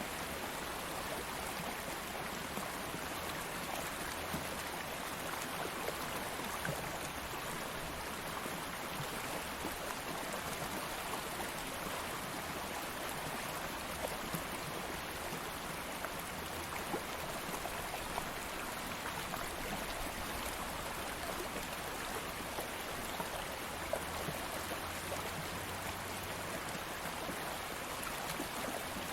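Stream water flowing steadily over stones, a continuous rush with many small splashes and trickles.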